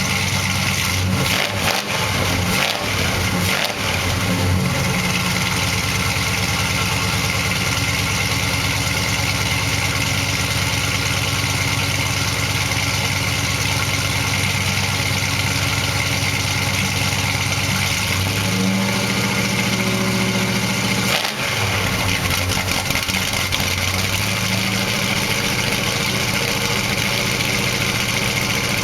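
Carbureted 400 cubic inch big-block V8 idling, a little uneven around two to four seconds in and rising briefly in pitch about two-thirds through. The carburettor needs adjusting, but the engine runs fairly smoothly.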